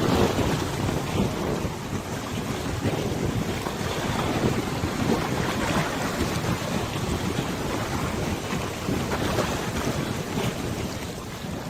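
Wind blowing across a wide river, buffeting the microphone, with choppy water splashing. The rushing noise swells and eases without any steady tone.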